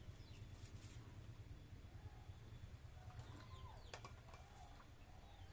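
Near silence over a low steady hum, with a few faint bird calls about three to four seconds in.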